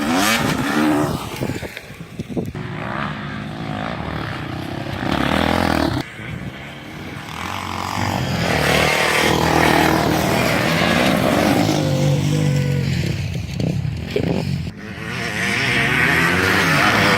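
Enduro motorcycle engine running and revving, its pitch rising and falling repeatedly as the throttle opens and closes, with sudden breaks about six and fifteen seconds in.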